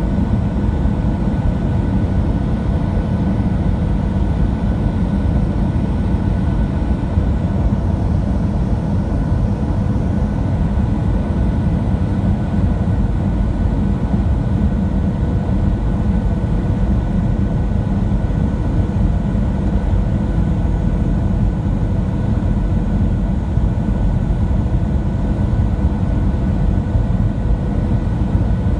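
Steady cabin noise of a Boeing 737-700 airliner with CFM56-7B engines: a loud, even low rumble with a few faint steady engine tones above it, unchanged throughout.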